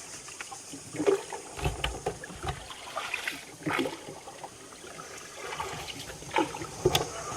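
Small wooden boat being paddled: irregular paddle splashes and knocks, with water trickling and lapping in between.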